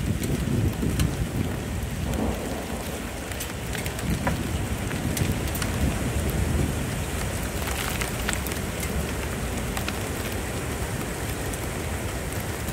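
Steady rain with scattered individual drops ticking close by, under low thunder rumbling that is strongest in the first two seconds.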